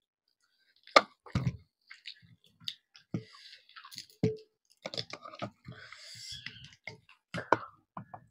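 Close eating sounds of chicken leg with rice and gravy: chewing and wet mouth smacks with scattered short clicks, the sharpest about a second in.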